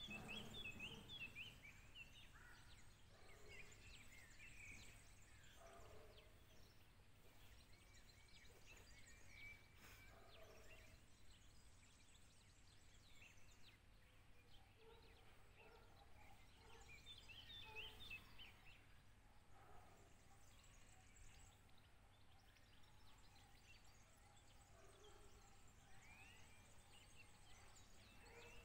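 Faint birdsong: scattered short chirps and twittering, with quick runs of chirps about a second in and again around eighteen seconds in, over a low steady background noise.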